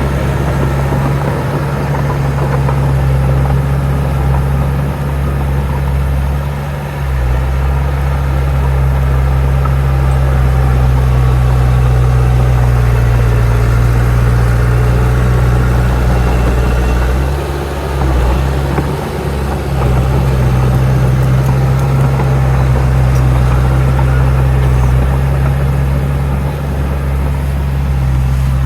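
Heavy diesel engine of earthmoving machinery running steadily with a low, even note. It dips briefly about a quarter of the way in and again just past the middle.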